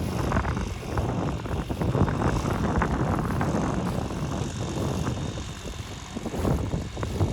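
An engine running with a steady low rumble, broken by many short irregular pulses.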